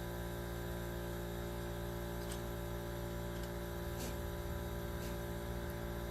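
Steady electrical hum of several even tones, unchanging throughout, with a couple of faint ticks.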